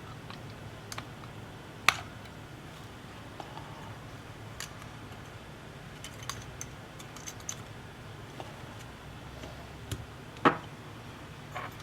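Small clicks and taps of hand tools on a tablet being taken apart on a workbench, over a low steady hum. Two sharper knocks stand out, one about two seconds in and one near the end.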